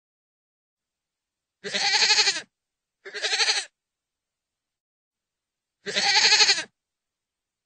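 A goat bleating three times, each call a wavering, pitched bleat under a second long. The first and third are longer, the second shorter, with dead silence between them.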